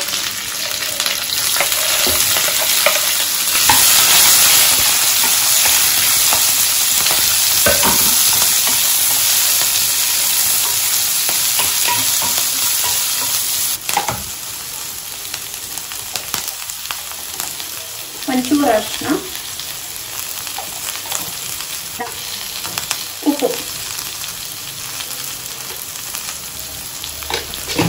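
Sliced onions, green chillies and curry leaves frying in hot oil over a mustard-seed and dal tempering in a nonstick kadai, stirred with a wooden spatula. A loud sizzle eases to a softer one about halfway through.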